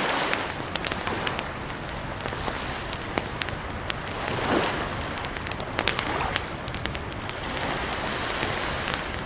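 Campfire of burning wood crackling, with frequent sharp snaps and pops over a steady hiss, and a soft swell about halfway through.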